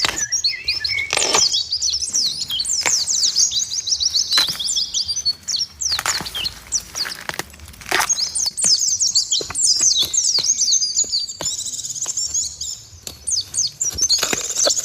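Many small birds chirping and twittering together: a dense run of quick, high, overlapping chirps, with a few short sharp clicks among them.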